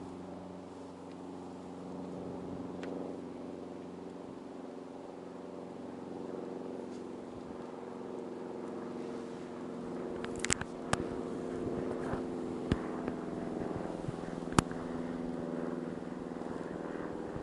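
Steady hum of an engine or motor running, with several sharp clicks or knocks in the second half, the loudest near the end.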